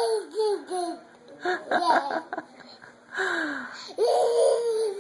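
A young child laughing and squealing in short high-pitched bursts, ending in a long held squeal.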